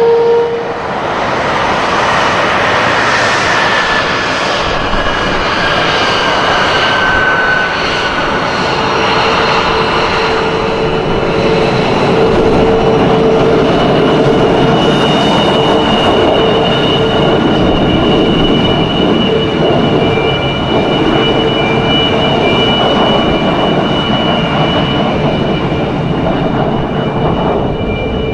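F-22 Raptor jet engines, a steady loud roar with a high turbine whine, and a tone that slides down in pitch in the first several seconds as the jet passes.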